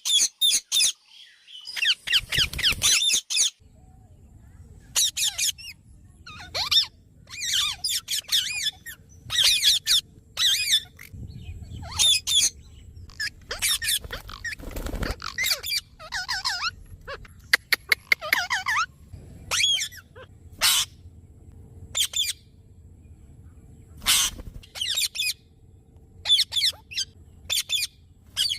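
Parrots squawking: repeated harsh, wavering calls in short bursts, with gaps of a second or two between them, over a faint low hum.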